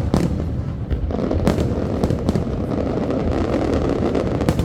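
Fireworks display: several sharp bangs of aerial shells bursting, over a dense crackling that starts about a second in.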